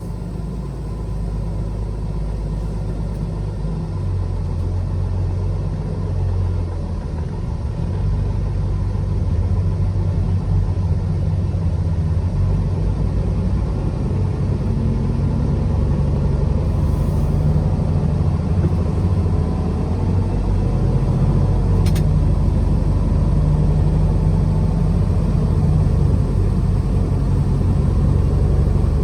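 Truck engine and road rumble while driving, the low engine note shifting up and down a few times and the overall sound slowly growing louder. A single sharp click about three-quarters of the way through.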